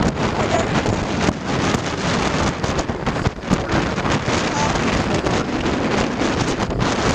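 Strong wind ahead of a hurricane buffeting the microphone: a loud, continuous rush of noise that flutters and gusts rapidly.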